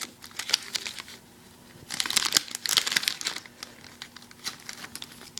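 A foil booster-pack wrapper being torn open and crinkled by hand, in bursts of crackling that are densest about two to three and a half seconds in.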